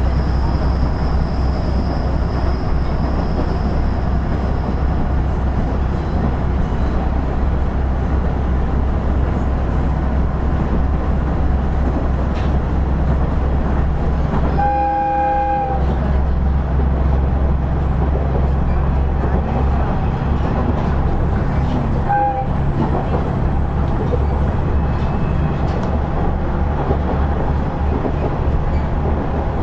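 KiHa 110-series diesel railcar heard from inside while running: a steady low engine drone over wheel and track noise. About halfway through, the horn sounds for about a second, then gives a very short toot some seven seconds later.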